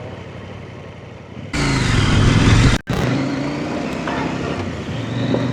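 Dirt bike engine, quiet for the first second and a half, then suddenly loud as the bike pulls away under throttle, then running steadily. The sound drops out for an instant just under three seconds in.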